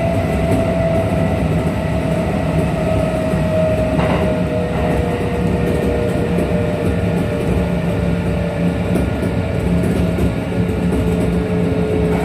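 Onboard running sound of a Kintetsu 1233 series electric train: a steady rumble of wheels on rail with a whining tone that slowly falls in pitch as the train slows. There is a single knock about four seconds in. This particular car is known for an abnormal running noise.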